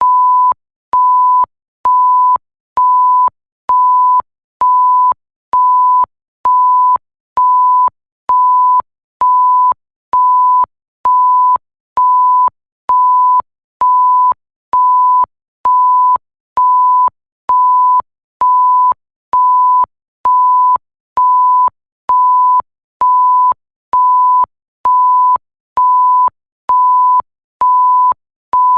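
Electronic bleep: a pure tone near 1 kHz beeping on and off about once a second, each beep about half a second long, with a faint click as each beep starts and stops.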